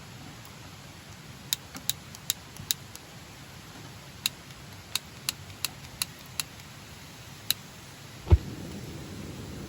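A run of about eleven light, sharp clicks or taps at uneven spacing, then one heavy thump near the end, over a steady low background hiss.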